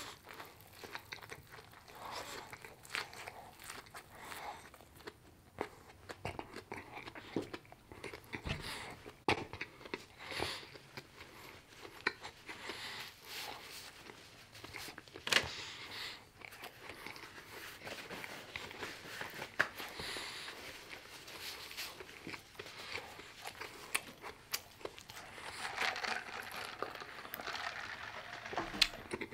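Close-miked chewing of a mouthful of chicken burger: a bite at the start, then a long run of crunching, wet mouth sounds and small lip smacks.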